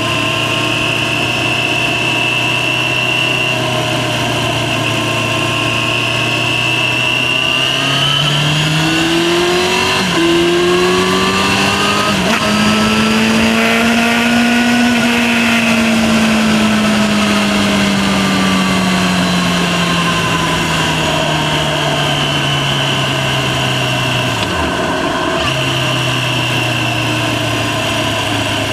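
Yamaha FZ6's 600 cc inline-four engine on the move. It runs at steady low revs, then the revs climb over several seconds with two short breaks. They ease off slowly, dip suddenly near the end, and settle back to the steady low pitch.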